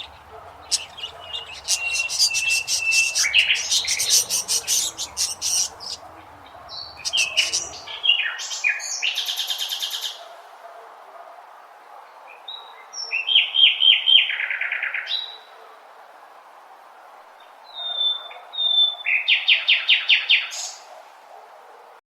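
Birds calling in bouts of fast, repeated chirps and trills, each bout lasting a few seconds with short pauses between.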